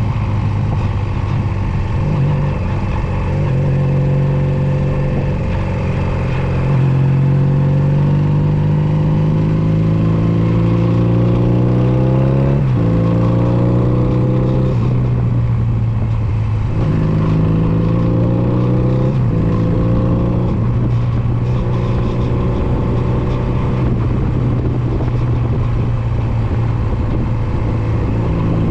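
Honda Nighthawk 250's air-cooled parallel-twin engine pulling up through the gears. The pitch rises, drops sharply at an upshift about halfway through, climbs again to a second shift, then settles into a steady cruise.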